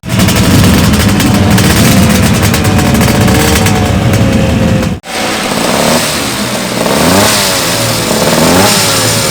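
Two-stroke racing motorcycle engines running loud. The first holds a high, slightly wavering note; after an abrupt cut about halfway through, another is blipped repeatedly, its pitch rising and falling with each throttle stab.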